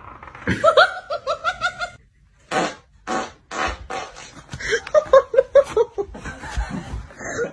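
A person laughing in quick repeated bursts, with a few short noisy fart sounds between the laughs.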